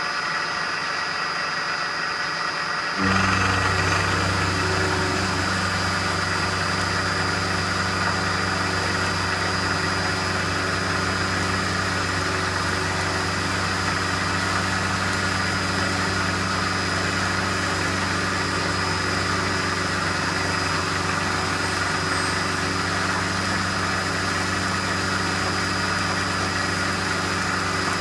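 Machine-tool electric motor running steadily with a low hum, coming in abruptly about three seconds in.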